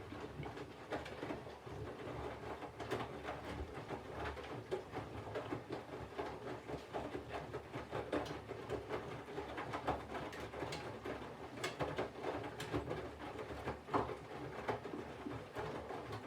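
Front-loading Candy washing machine drum turning, with wet laundry tumbling and water sloshing over a low rumble and many small irregular clicks. This is the water-heating phase of a 40° colours wash.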